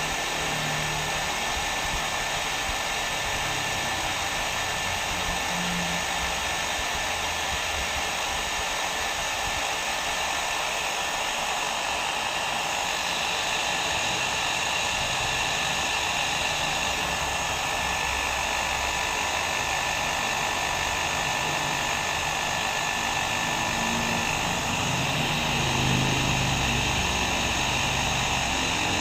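Hair dryer blowing continuously: a steady rushing noise of air and motor with a faint constant whine, used as white noise for sleep.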